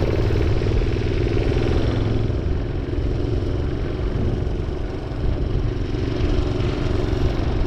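Minibike's small engine running steadily while being ridden.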